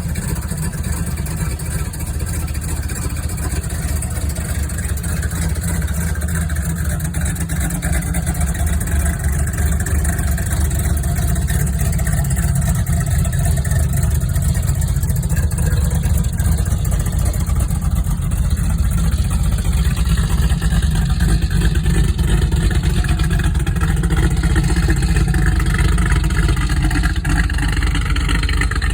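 Chevrolet small-block V8 in a 1984 Camaro Z28, built with a Lunati cam and 11.5:1 compression, idling steadily through a Borla exhaust with a deep, pulsing note.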